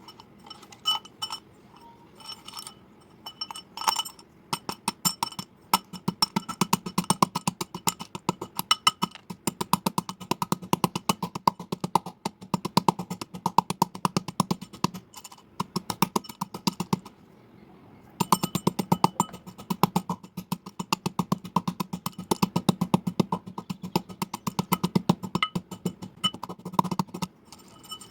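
Slate pencils being bitten and chewed: rapid, sharp crunching clicks, several a second, with a brief pause about seventeen seconds in.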